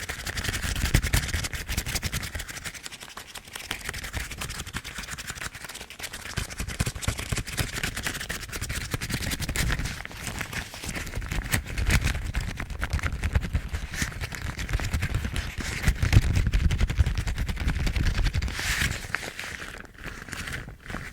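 Yellow household rubber gloves rubbed and scratched close to the microphone: a continuous crackling, squeaky rubbing, swelling louder several times.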